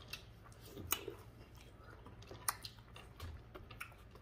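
Mouth sounds of someone eating seafood boil: chewing and wet smacking, with a few sharp clicks, the two loudest about a second in and about two and a half seconds in.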